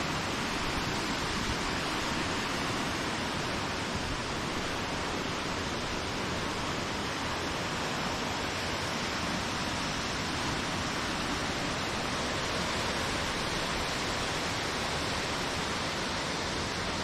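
Swollen mountain river rushing steadily, a dense, even roar of floodwater running high after typhoon rain.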